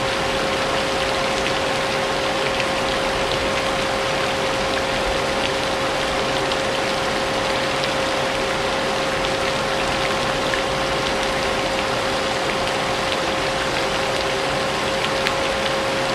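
Vacuum cleaner running steadily with a constant motor whine, layered over continuous rainfall with scattered drop ticks.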